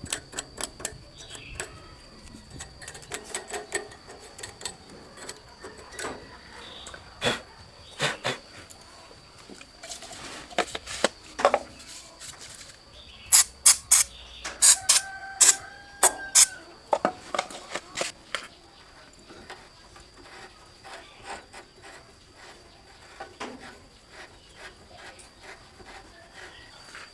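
Irregular clicks and knocks of hand tools and metal parts during repair work on a rice milling machine, with a burst of louder clicks about halfway through, over a faint steady high whine.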